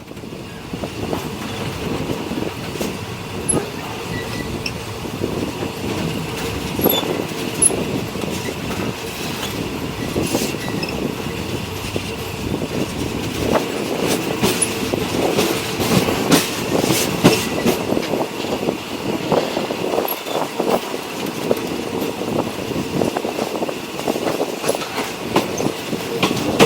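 Passenger train running along the track: a steady rumble with a faint steady whine, broken by irregular clacks and knocks of the wheels on the rails.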